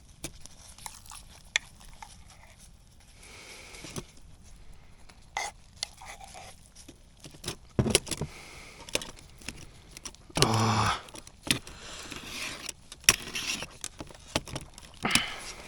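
Tin of stewed meat and metal utensils being handled: irregular scrapes, clinks and knocks, with one louder, longer scraping sound about ten seconds in.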